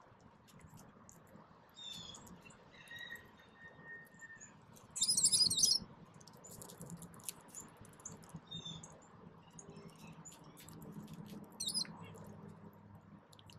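Small songbirds at a ground feeder calling: scattered high chirps and a few short whistles, with a loud rapid burst of twittering about five seconds in and a shorter one near the end. A faint low hum joins in the background in the last few seconds.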